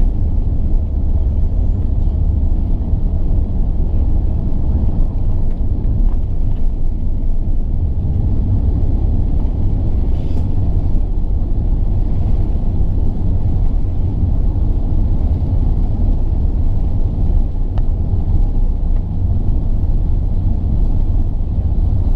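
Airbus A380-861's Engine Alliance GP7200 turbofans and airflow heard inside the cabin on takeoff: a loud, steady low rumble.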